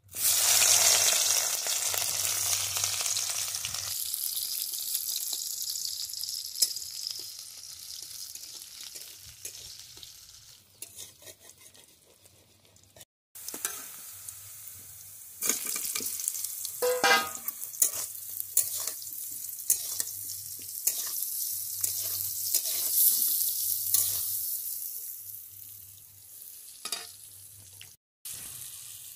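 Sliced onions dropped into hot oil in a steel wok, sizzling loudly at once and dying down over several seconds. Then a steady frying sizzle with a metal spatula scraping and knocking against the wok as the onions are stirred.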